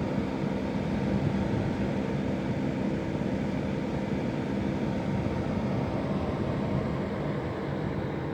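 Air conditioner and heat unit running in heat mode, its fan blowing hot air with a steady rush and a low hum.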